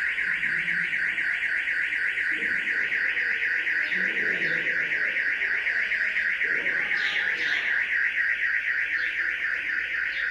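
Alarm sounding: a steady high-pitched tone pulsing rapidly and evenly, about five times a second.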